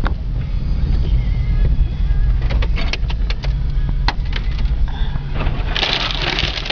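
Car driving slowly on an icy road, heard from inside the cabin as a steady low rumble. In the middle come a run of sharp clicks and taps, typical of ice falling onto the car, and near the end a harsh hissing scrape, typical of ice-laden branches brushing the car.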